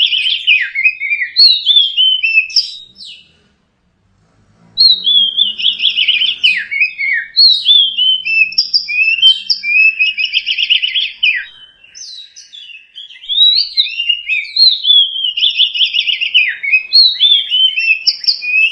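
Oriental magpie-robin (kacer) singing a lure song of varied whistled phrases and quick scratchy trills. The song breaks off for a second or two a few seconds in, then runs on, dipping briefly past the middle.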